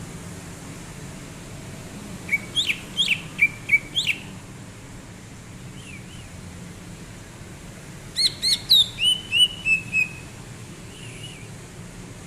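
Green leafbird (cucak ijo) singing: two short bursts of sharp, clear whistled notes a few seconds apart, the second ending in a run of falling notes.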